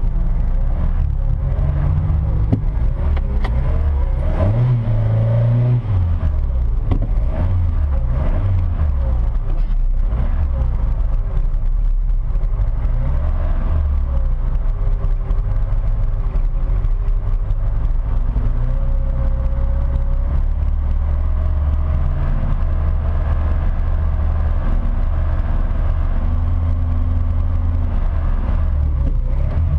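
Davrian Mk8 sports car's Hillman Imp engine running hard, its pitch rising and falling again and again as it revs up and the gears change.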